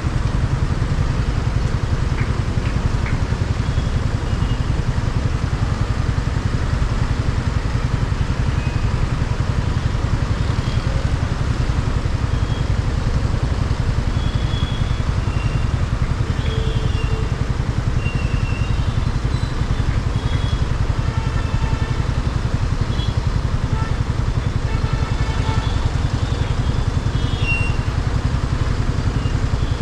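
Motorcycle riding on the road: a steady low rumble of engine and wind noise on the helmet-mounted microphone, with scattered short high-pitched tones over it.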